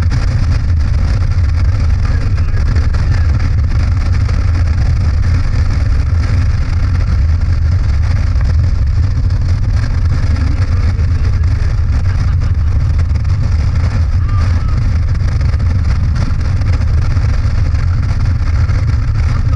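Motorcycle cruising at a steady speed: a constant, loud low engine drone mixed with wind rush, without changes in pace.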